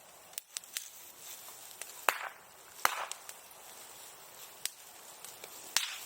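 Bonfire of burning wooden sericulture tools crackling: a few small snaps in the first second, then sharp louder pops about two, three and six seconds in over a faint steady hiss of the fire.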